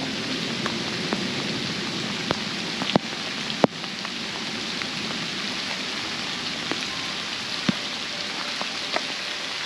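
Heavy rain falling steadily, with scattered sharp taps, the loudest about three and a half seconds in.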